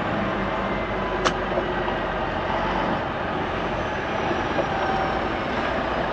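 Heavy truck under way at road speed: steady engine and road noise, with one sharp click about a second in.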